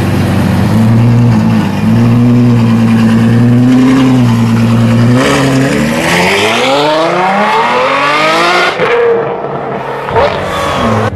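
Ferrari F12 Berlinetta's 6.3-litre V12 running at low revs as the car pulls away, then revving hard, its pitch climbing for about three seconds. It breaks off at an upshift, and a short second rise follows near the end.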